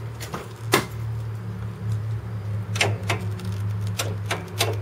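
Irregular sharp clicks and clacks from the hood release and latch of a Mazda MX-3 being worked open, one loud click under a second in and a cluster near the end, over a steady low hum.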